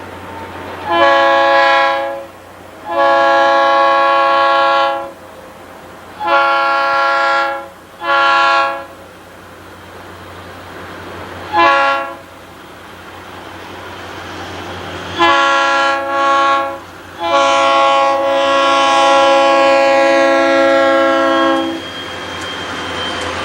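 Locomotive multi-chime air horn sounding a series of long and short blasts, ending in one long held blast. Under it, the train's rumble grows louder as it approaches.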